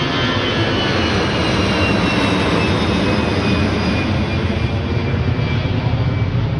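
Jet airliner taking off: a loud, steady engine rumble with a high whine that slowly falls in pitch.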